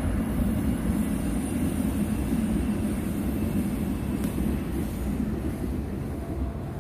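A train running past: a steady low rumble with a faint high whine above it, easing off slightly toward the end.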